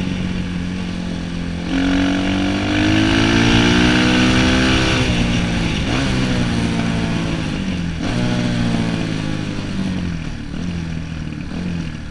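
Orion 250cc dirt bike engine revving hard under acceleration, its pitch climbing then dropping several times in quick succession as the rider shifts gears.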